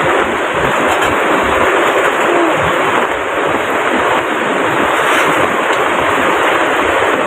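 Very heavy rain pouring down: a loud, steady hiss of rainfall.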